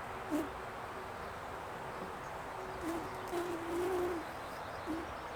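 Honeybees buzzing around an open hive, with single bees passing close to the microphone in short pitch-bending buzzes and one longer wavering buzz about three and a half seconds in.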